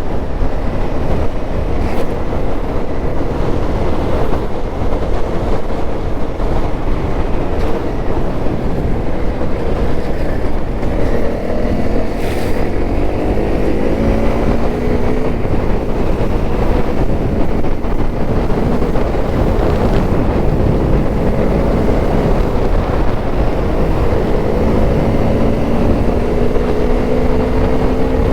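Honda CRF250L's single-cylinder four-stroke engine running under load while riding, with wind buffeting the microphone. The engine note climbs in pitch about halfway through and again near the end.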